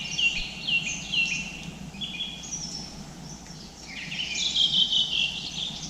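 Small songbirds singing: a run of short, falling chirps repeated about twice a second, then other varied chirping calls, over a steady low background noise.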